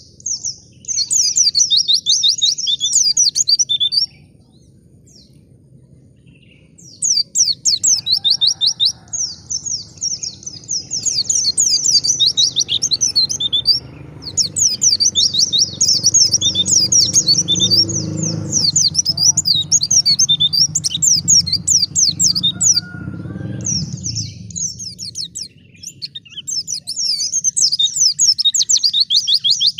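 White-eye (pleci) singing: long, fast, high twittering phrases, broken by a pause of about three seconds near the start. A low background rumble rises under the song in the middle.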